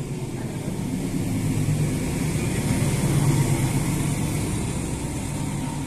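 A passing train's low running rumble, with hiss above it, growing louder to a peak about halfway through and then easing off.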